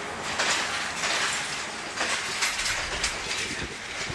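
Passenger train coaches arriving and rolling past a station platform close by, wheels clacking irregularly over rail joints under a steady hissing rush, growing a little quieter near the end.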